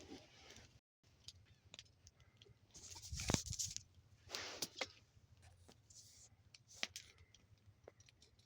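Wood fire crackling, with faint irregular pops and snaps from the burning logs, and a louder rustling thump about three seconds in.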